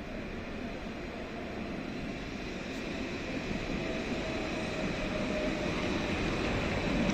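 Steady vehicle noise, growing gradually louder, with a faint thin whine in the middle.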